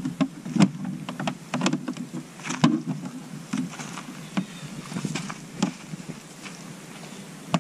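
Irregular clicks and knocks from handling a truck camper's outdoor shower hose and its fittings as it is pulled out, over a low steady hum.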